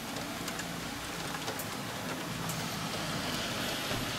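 Steady rain pattering on a windowpane, with light sizzling and crackling from cevapcici laid on the hot grate of an electric high-temperature grill; the sizzle grows a little louder near the end.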